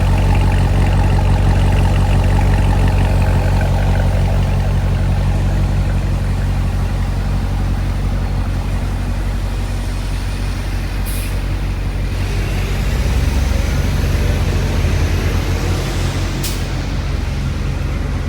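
Chevrolet Corvette C7's V8 idling steadily after a cold start on a cold morning, heard through its NPP performance exhaust. Two sharp clicks come about eleven and sixteen seconds in.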